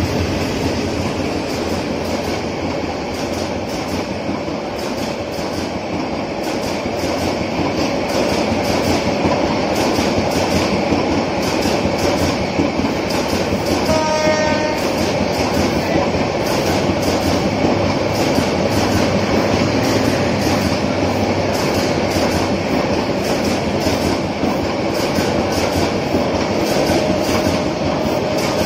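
Passenger express train coaches passing close at speed through a station without stopping: steady rumble with continuous rapid wheel clatter over the rail joints. A brief tone sounds about halfway through.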